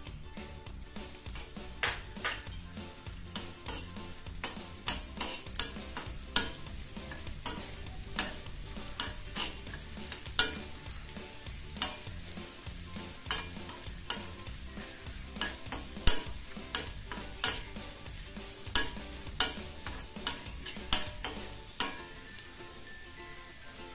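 Chopped coconut pieces sizzling in ghee in a metal kadai, with a steel spoon stirring them. The spoon gives repeated irregular clinks and scrapes against the pan that stop near the end, leaving the steady frying hiss.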